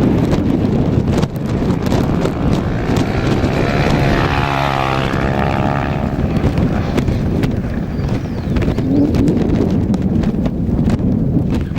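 A rally vehicle's engine going past at speed, its pitch falling as it passes about four to five seconds in, over a steady low rumbling noise.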